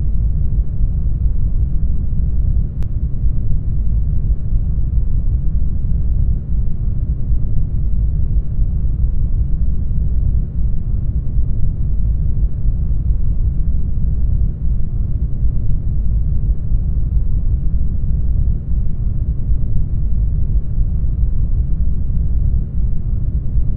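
Steady brown noise: an even, deep rumble of random noise, strongest in the lows and thinning out toward the highs.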